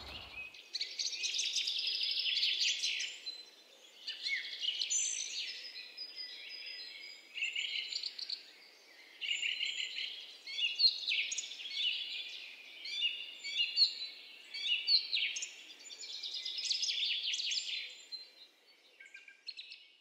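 Songbirds singing and calling outdoors: chirps and trills in phrases of one to three seconds with short gaps between them, over a faint steady background hiss. It fades out near the end.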